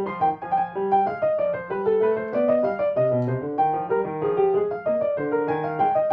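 Piano playing a melody over lower accompanying notes.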